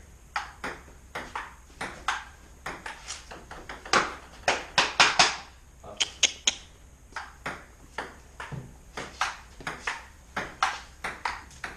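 Table tennis rally: the ball clicking quickly back and forth off paddles and the table, in runs of hits with short gaps between points.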